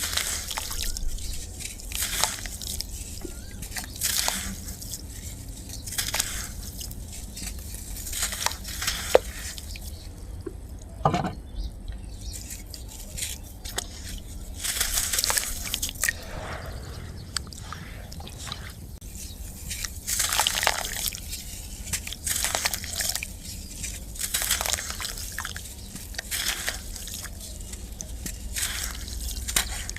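Dusty black sand chunks crumbling and dropping into water: repeated drips and splashes with some crunching, coming at irregular intervals.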